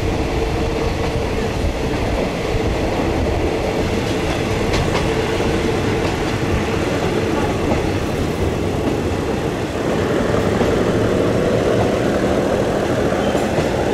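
Passenger train running along the track, heard from an open carriage window: the steady running noise of wheels on the rails and the moving carriages, growing a little louder about ten seconds in.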